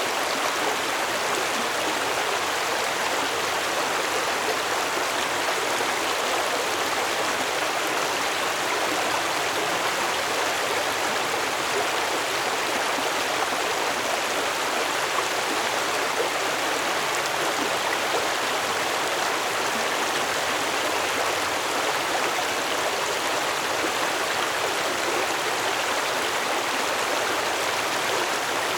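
Stream water flowing steadily over rocks, an even rushing babble with no breaks.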